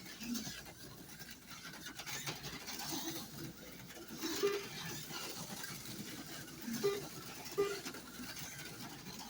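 HO-scale slot cars' small electric motors buzzing as they run around the track, with several short beeps through the middle and end.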